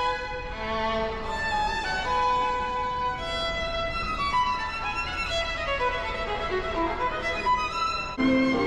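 Violin playing a melody of held notes, with a falling run of notes from about six seconds in; the sound shifts abruptly to lower, louder notes near the end.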